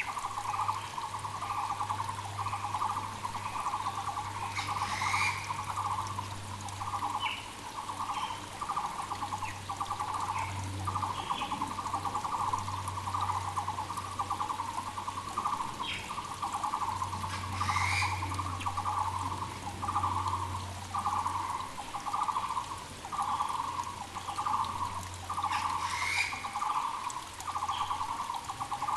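Muller's barbet (Taiwan barbet) calling, a steady run of low repeated notes a little more than one a second, over the rush of a mountain creek, with short calls from other birds now and then.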